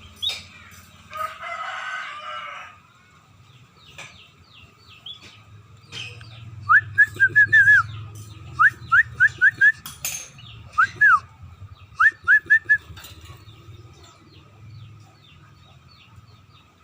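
Birds calling: small chirps, and from about seven seconds in, four quick runs of clear whistled notes sliding up and down, the loudest sounds. A longer, rougher call lasting about a second and a half comes about a second in.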